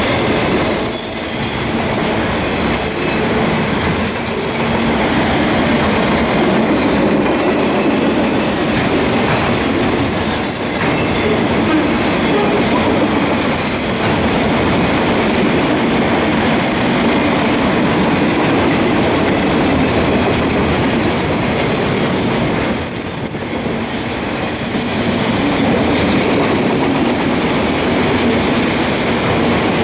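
Freight train's autorack cars rolling past: a steady rumble of steel wheels on rail, with high-pitched wheel squeal coming and going and clicking over rail joints.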